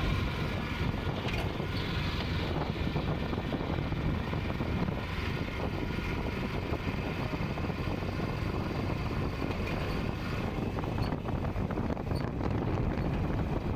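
Steady outdoor background noise with a low rumble and no distinct events, like distant traffic mixed with wind on the microphone.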